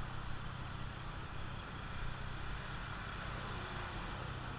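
Motorcycle engine running steadily under a constant rushing noise of wind and traffic.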